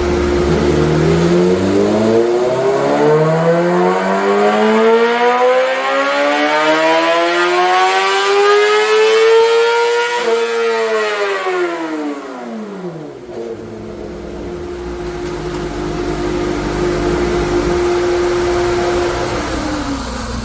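Kawasaki ZX-6R inline-four, running through an M4 full exhaust with the baffle in, is revved in one steady climb on the dyno over about nine seconds. The throttle is then shut and the engine drops quickly back to a steady idle, and the idle sags near the end. This is the stock-tune baseline pull: factory restrictions cut the power before redline, so the revs never reach the rev limiter.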